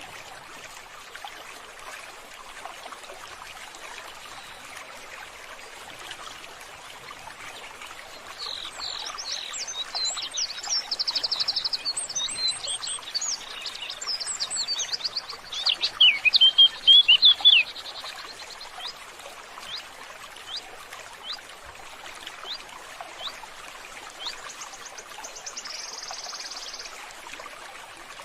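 Small birds chirping and trilling over a steady trickle of running water. The calls come thick about a third of the way in, are loudest just past the middle, and a buzzy trill follows near the end.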